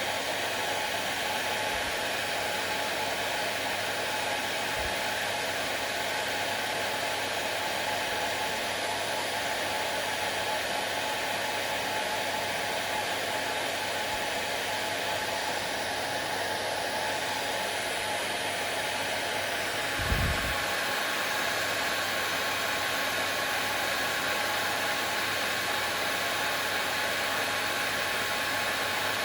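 Hair dryer running steadily. A brief low thump comes about twenty seconds in, after which its tone shifts slightly.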